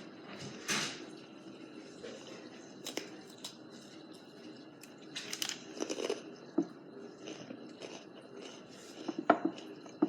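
Someone chewing a crunchy pretzel close to the microphone: irregular crunches, bunched around the middle, with a sharper one near the end.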